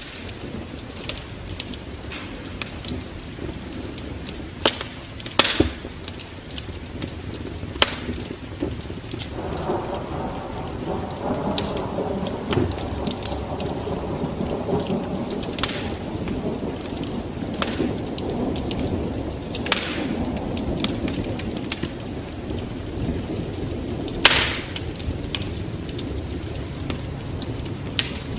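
Wood fire crackling in a fireplace, with frequent small clicks and a few sharper pops. From about ten seconds in, a denser rushing sound joins the crackle for around twelve seconds before fading.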